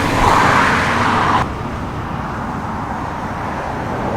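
Lorry driving in, its engine and tyre noise loud at first and cutting off suddenly about a second and a half in, leaving a steady, quieter vehicle rumble.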